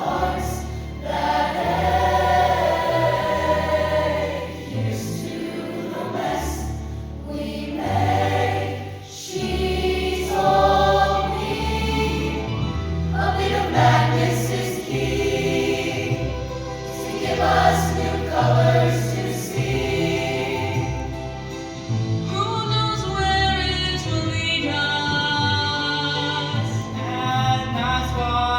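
Choir singing in a live performance, many voices together over low accompanying notes that change every second or so.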